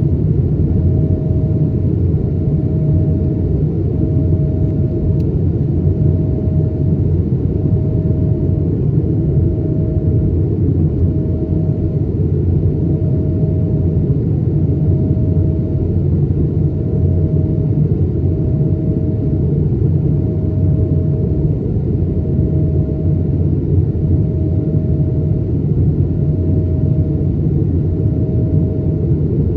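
Steady, loud rumble of an Airbus A220-300 in flight, from its Pratt & Whitney PW1500G geared turbofans and the airflow, heard from inside the cabin. A mid-pitched engine tone swells and fades about every one and a half seconds.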